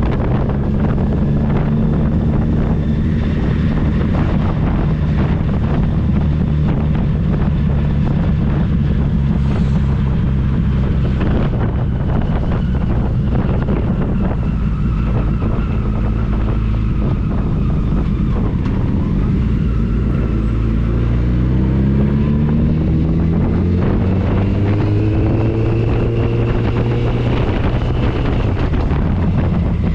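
Touring motorcycle engine running at steady speed under heavy wind noise on the microphone. About two-thirds of the way in, the engine note climbs as the bike accelerates, rising twice.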